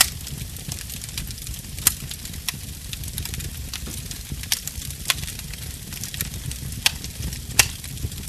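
Burning wood fire crackling: a constant scatter of small ticks and half a dozen sharper pops, the loudest near the end, over a steady low rumble.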